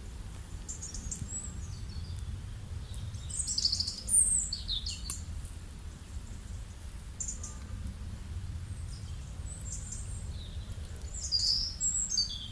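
Songbirds chirping and calling in short high phrases, some falling in pitch, with the busiest bursts about a third of the way in and again near the end, over a steady low rumble.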